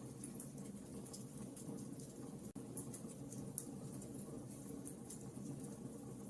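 Fire in a fireplace crackling: frequent small, sharp pops and snaps scattered irregularly over a low steady rumble of the flames. The sound drops out for an instant about two and a half seconds in.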